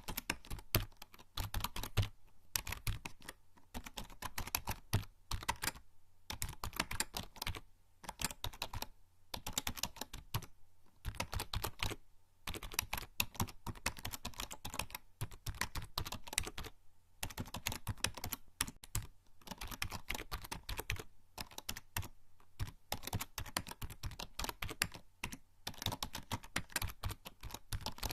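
Typing on a membrane computer keyboard: fast runs of soft key clicks broken by short pauses, like someone writing text.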